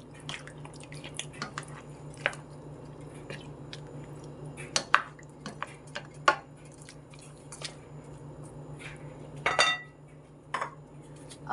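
Kitchen utensils clinking and knocking against a cooking pot and dishes in scattered sharp clicks, over a steady low hum.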